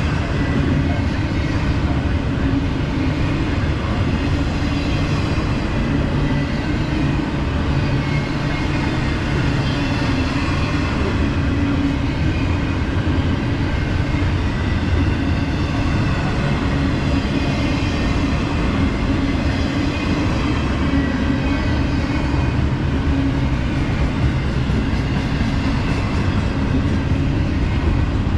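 CSX intermodal freight train rolling past, with a steady, unbroken noise of wheels on the rails.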